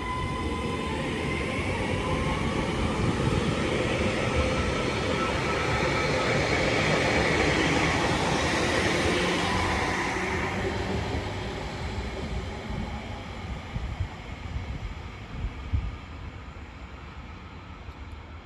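Class 331 electric multiple unit departing: its traction motors whine, the tone rising in pitch in the first couple of seconds, and the running noise swells to its loudest about eight seconds in, then fades as the train draws away.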